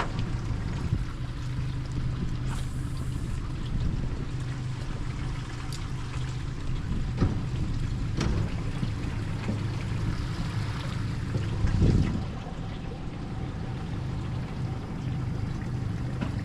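Small boat's motor humming steadily, with water trickling and splashing around the hull. A few short clicks, and a louder bump about twelve seconds in.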